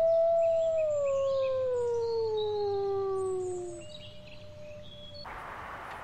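Wolf howling: one long howl that rises quickly and then slowly falls in pitch over about four seconds, with a second, fainter howl taking over near the end and small birds chirping faintly behind. About five seconds in it gives way to a steady outdoor hiss.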